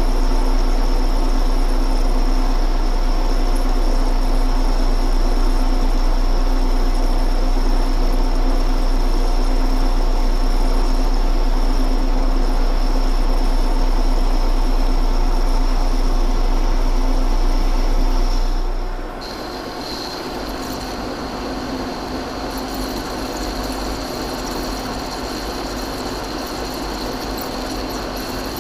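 Large metal lathe running steadily while cutting a steel shaft, a constant machine hum with a steady high whine. About nineteen seconds in the sound drops noticeably and the whine shifts to a lower pitch.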